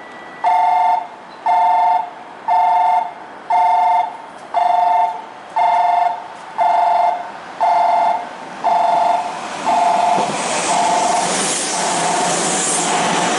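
Platform warning chime for a passing train: a two-note beep repeating about once a second. From about ten seconds in it is drowned by the rising rush of the Semboku Liner limited express running through the station without stopping.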